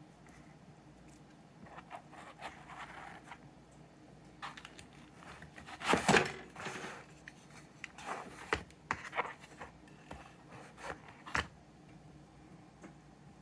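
Handling noise from unboxing an airsoft gearbox: scattered scrapes, rustles and clicks of the packaging and parts, with the loudest rustling scrape about six seconds in.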